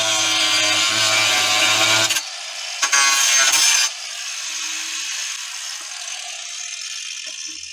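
Angle grinder cutting: a loud, steady whining cut lasting about two seconds, a second short cut around three seconds in, then the disc whirring as it slowly spins down.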